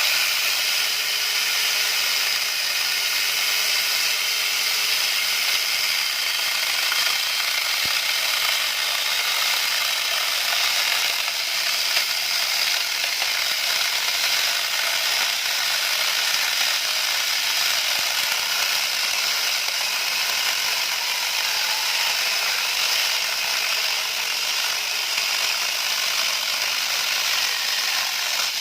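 Ryu 12-inch electric saw switching on suddenly and running steadily as it cuts through a thick piece of wood.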